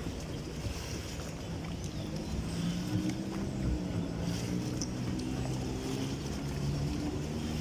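A water taxi's outboard motor running on the river: a steady engine hum whose pitch wavers slightly.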